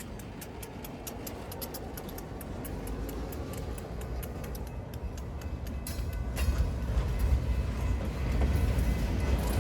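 Freight train rolling along the track, its wheels clicking over the rails while the low rumble grows steadily louder as it approaches.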